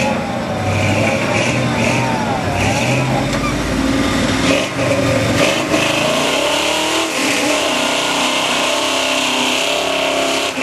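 Tough-truck competition truck's engine revving hard in the mud pit, its pitch repeatedly rising and falling.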